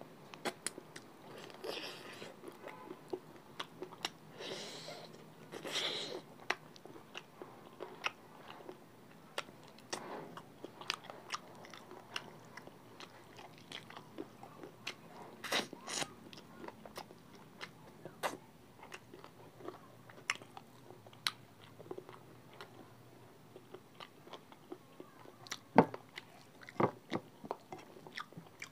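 Close-up eating sounds: chicken feet in gravy being bitten and chewed, with wet mouth noises and small crunches. A few sharper clicks stand out near the end.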